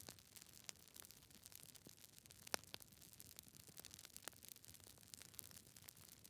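Log fire in a fireplace crackling: faint, irregular pops and snaps from the burning wood, the sharpest about two and a half seconds in.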